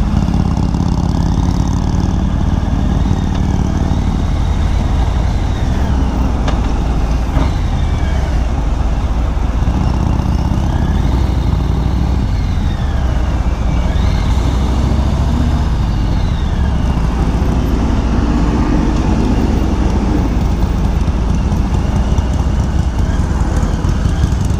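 Harley-Davidson motorcycle engine running steadily under way, with wind noise rushing over the rider's microphone.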